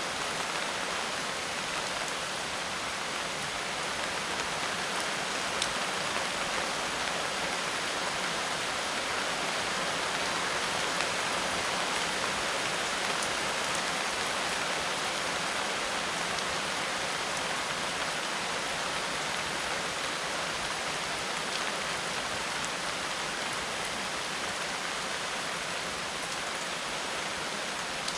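Steady, even rainfall, a continuous hiss of rain falling on a surface with no breaks.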